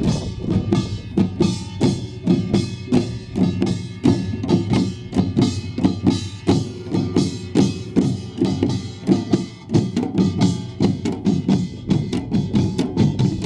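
Korean pungmul folk percussion: kkwaenggwari small gongs clanging over buk barrel drums and the ringing jing gong, in a fast, steady, driving beat.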